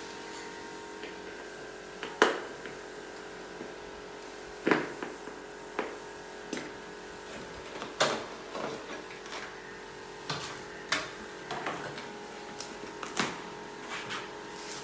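Irregular sharp clicks and knocks, about one every second or two, each with a short ring, over a steady hum.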